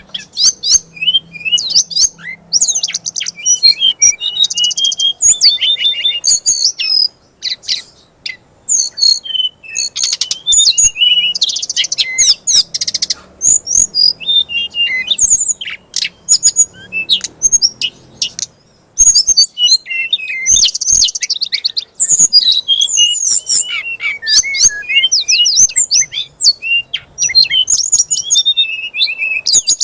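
A songbird singing almost without pause in a fast, aggressive 'fighter' style: rapid chirps, trills and sweeping whistles, with brief breaks at about 7 and 18 seconds in. This is the kind of song used to provoke a kacer (oriental magpie-robin).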